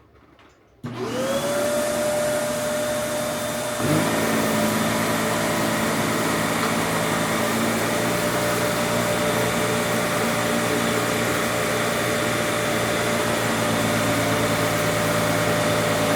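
Kenmore Elite upright vacuum cleaner switched on, its motor whining up to speed and then running steadily. About four seconds in, a lower hum joins and the sound gets a little louder.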